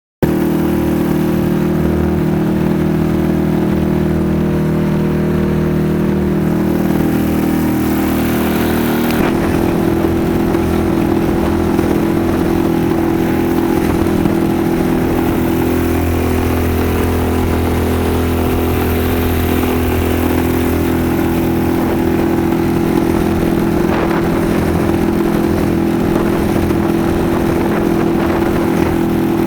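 Suzuki DF 5 four-stroke outboard motor running steadily, with a change in engine note about nine seconds in.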